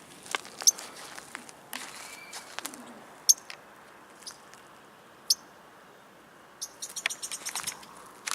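Songbird chirping: single sharp, high chirps a few seconds apart, then a quick run of chirps near the end. These are the agitated calls of a parent bird whose fledgling is on the ground.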